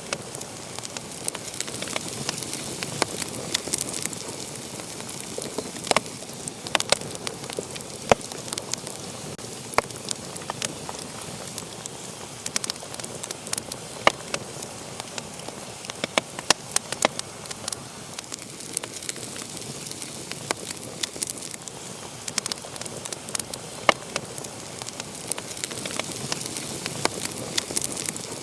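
Wood fire burning in a fireplace, crackling and popping: sharp irregular snaps, several a second, over a steady hiss of flame.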